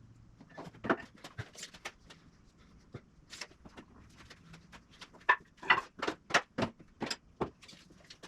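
A run of irregular sharp knocks and clatters, loudest in a quick cluster from about five to seven and a half seconds in.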